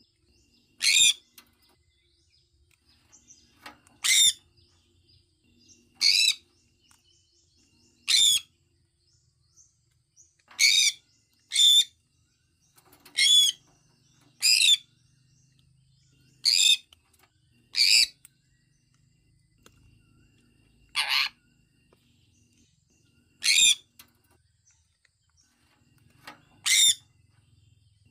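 Sun conure calling: about a dozen short, loud, shrill calls, repeated every one to three seconds.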